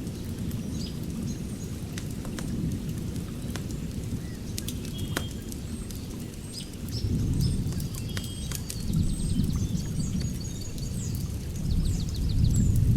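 Fire pit crackling with scattered sharp pops over a low rumble, while small birds chirp and sing throughout. The rumble swells louder about seven seconds in and again near the end.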